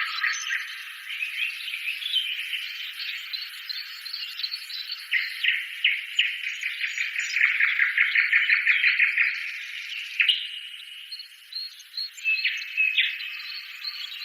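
Birdsong: several small birds chirping and trilling over one another, with a fast, evenly repeated trill about halfway through.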